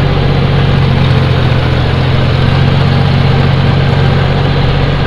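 John Deere tractor's diesel engine running steadily at an even speed, its low engine note constant throughout.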